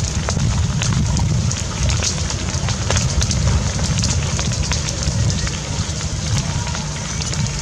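An open fire crackling with many sharp irregular pops, over a steady low wind rumble on the microphone.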